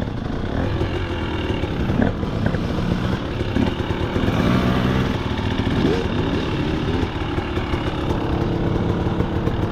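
2025 KTM 300 XC two-stroke single-cylinder dirt bike engine running, mostly idling, its pitch rising and falling a few times with throttle.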